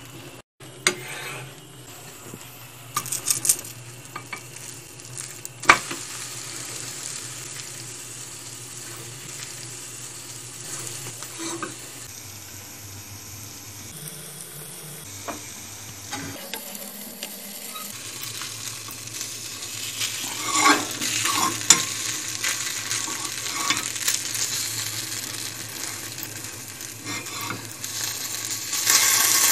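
Beaten egg and toast frying in oil in a nonstick pan: a steady sizzle, broken by a few sharp knocks and scrapes, busier in the second half and loudest near the end as a silicone spatula works under the toast.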